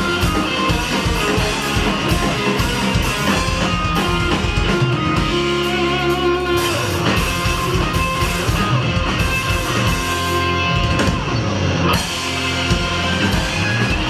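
Live rock band playing, with electric guitars, bass and a drum kit. Roughly six seconds in there is a brief held chord where the drum hits thin out.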